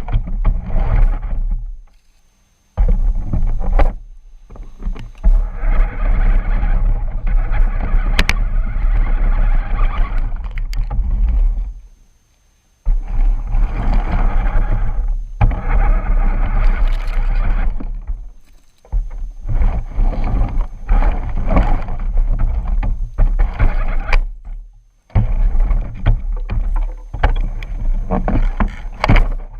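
Rough, loud rumbling of a remote-control truck driving over the ground, picked up by a camera mounted on the truck and rattling with the bumps. It comes in runs of several seconds, broken three times by short stops where it drops almost to silence.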